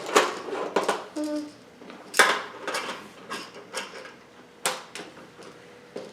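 Plastic Magnetic Polydron building pieces clicking and clattering as they are handled and rearranged: a run of irregular sharp clicks, the loudest about two seconds in and again near five seconds.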